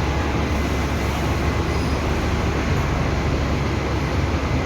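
Steady low rumble of a bus running, with engine and road noise and no distinct events.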